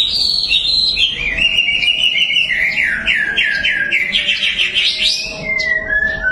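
White-rumped shama singing a long, varied song phrase, ending in a fast run of repeated notes at about five a second.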